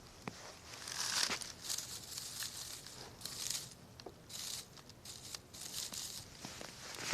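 Wood campfire burning: irregular bursts of crackling and rustling hiss with a few sharp pops.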